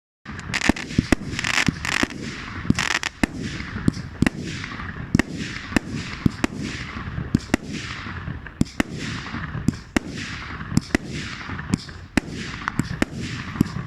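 Fireworks going off in quick succession: a rapid series of sharp bangs, more than one a second, each trailed by a hiss that fades away, the bursts overlapping into a continuous racket.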